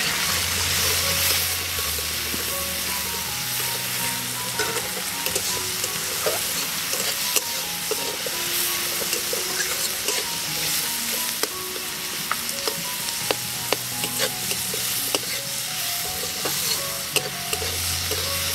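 Chopped onion and tomato sizzling in hot oil in a kadai, stirred with a spatula that scrapes and taps against the pan in frequent sharp clicks.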